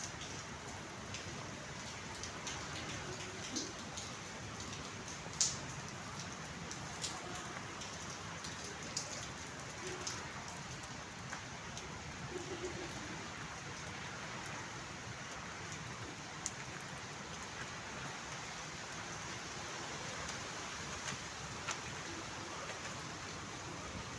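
Steady rain falling, with scattered sharp drip hits; the sharpest comes about five seconds in.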